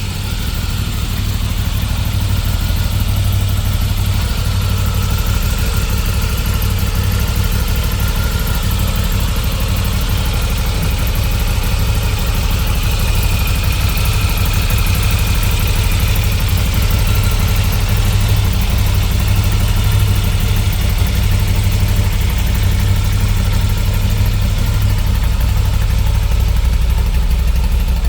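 Moto Guzzi V7 IV Stone's air-cooled transverse V-twin engine idling steadily.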